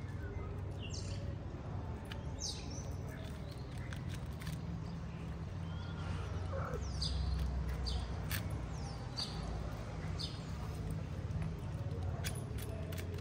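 Small birds chirping on and off, short high notes that sweep downward, over a steady low rumble, with a few scattered soft clicks.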